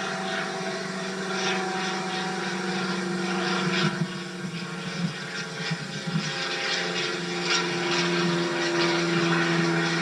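Steady mechanical hum from a running motor: a constant low drone with a higher overtone that shifts slightly after about six seconds, and scattered light clicks.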